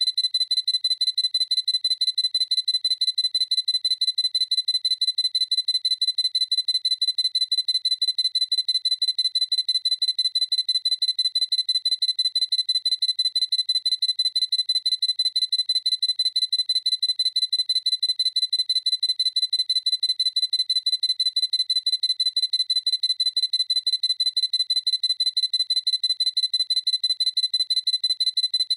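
Sony A7C camera's autofocus-confirmation beep, a high electronic beep repeated over and over in a fast, even rhythm.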